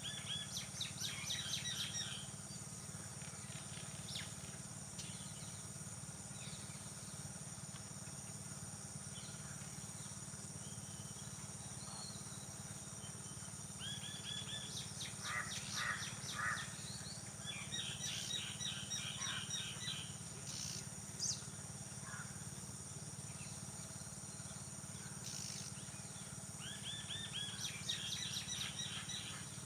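Songbirds singing in phrases of quick repeated high notes that come in bursts at the start, around the middle and near the end, over a steady low rumble of background noise.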